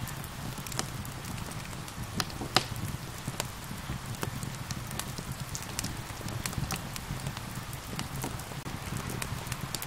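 Wood fire crackling with frequent sharp pops, the loudest about two and a half seconds in, over a steady hiss of rain and a low rumble.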